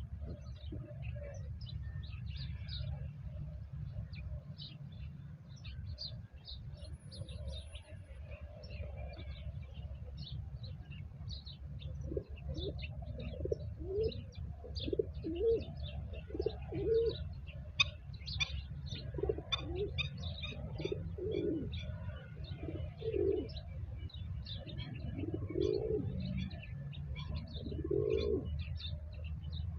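Doves or pigeons cooing in repeated low calls, starting about twelve seconds in, while small songbirds chirp throughout. A steady low rumble runs underneath.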